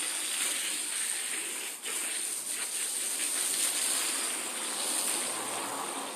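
Water spraying steadily from a hose onto a rubber anti-fatigue floor mat, a continuous hiss that drops out briefly about two seconds in.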